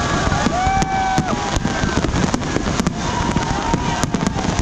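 Aerial fireworks display going off: a dense, continuous run of shell bursts and crackling reports.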